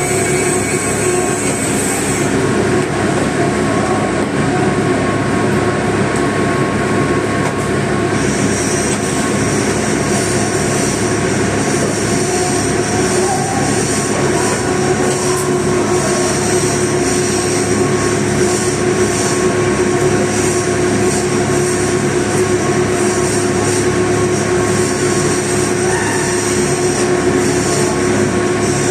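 Continuous loud mechanical noise: a steady hum with a hiss over it and no breaks; the high hiss grows stronger about eight seconds in.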